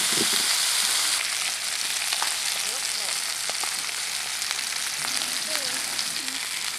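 Hamburger slider patties sizzling steadily in a hot skillet, the fat frying under them, easing slightly about a second in.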